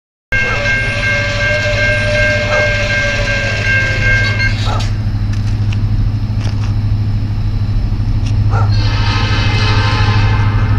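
Locomotive air horn sounding a long, steady chord at a grade crossing, cutting off about four and a half seconds in, over the steady low rumble of the passing train. A few clanks follow, and the horn sounds again near the end.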